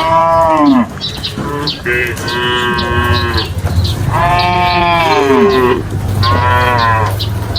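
Cattle mooing: about four drawn-out calls, some sliding down in pitch at the end. Short high chirps sound faintly behind them.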